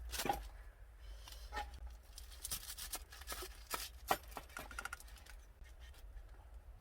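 Washed garlic chives being cut: a run of irregular short snips over the first five seconds or so, then it goes quiet.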